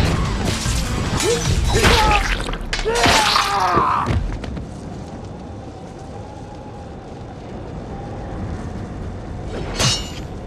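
Film soundtrack: music mixed with heavy crashes and booms for about the first four seconds, then a quieter held tone, with one sharp crash near the end.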